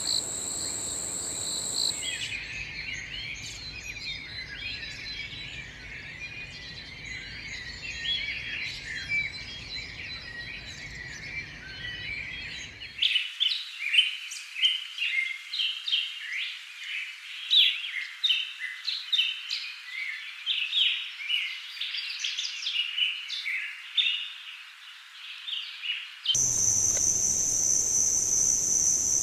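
Chorus of Amazon rainforest birds giving many quick chirps and calls. A steady high insect drone is heard at the start and again near the end.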